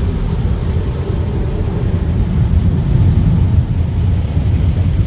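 Loud steady low rumble heard from inside a car's cabin as it goes through an automatic car wash.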